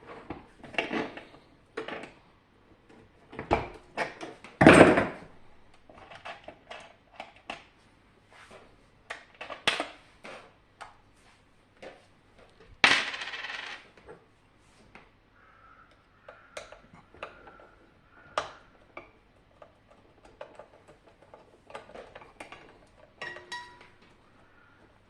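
Irregular clicks, clinks and knocks of small hard parts, such as screws and pieces of a SilverCrest SLE 450 A1 dehumidifier, being handled and set down during disassembly. The loudest knock comes about five seconds in, and a longer clatter about thirteen seconds in.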